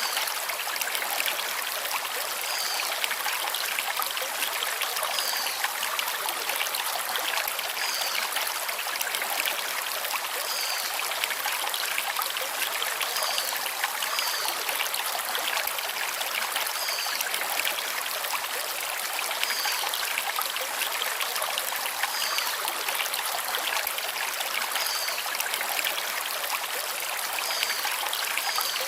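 Small stream flowing over stones, a steady rushing of water. A bird gives a short, high chirp about every two and a half seconds over it.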